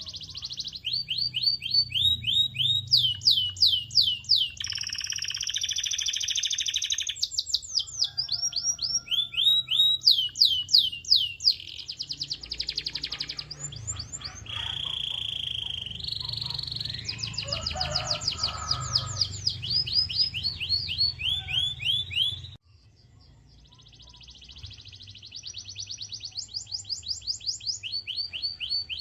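Canary singing: fast runs of repeated down-sweeping notes that switch between phrases, with buzzy rolls and held whistled notes. The song breaks off suddenly about three quarters of the way through, then fades back in.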